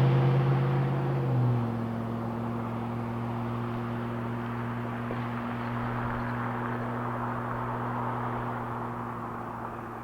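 A Chevy 5.3L V8 exhaust through a Cherry Bomb chambered muffler, heard from inside the truck's cab. About a second and a half in, the exhaust note drops in pitch and loudness as the throttle eases off, then settles into a steady low drone that slowly fades.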